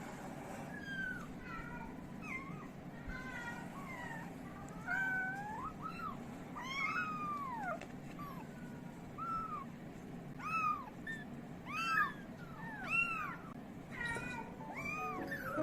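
Several young kittens mewing: many short, high, overlapping cries, coming faster and louder about two-thirds of the way through.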